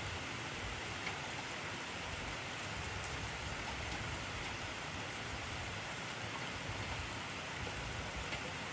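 Heavy rain falling steadily, an even hiss of many drops with occasional faint individual drop ticks.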